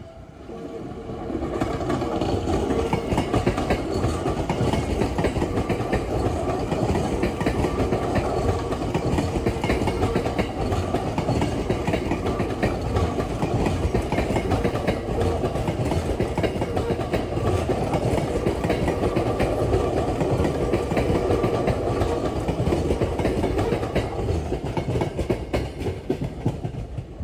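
Tokyo Metro 10000 series electric commuter train running past close by on the tracks. The noise swells over the first couple of seconds, holds steady while the cars go by, and dies away near the end.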